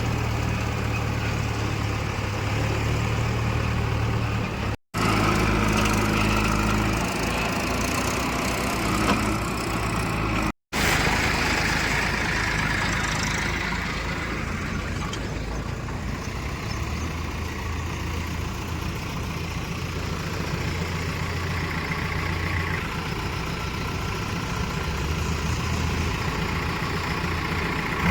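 Diesel engines of heavy machinery running steadily, at idle to moderate speed. The sound cuts out briefly twice, about five and ten seconds in, and the engine note shifts after each cut.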